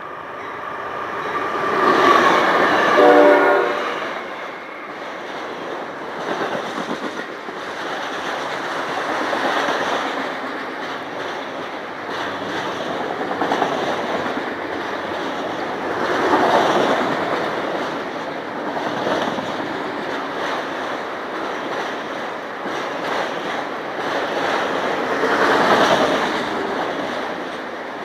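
A locomotive air horn sounds a short blast a couple of seconds in, then a train rolls past with steady rail noise and wheels clacking over the rail joints, swelling and easing as the cars go by.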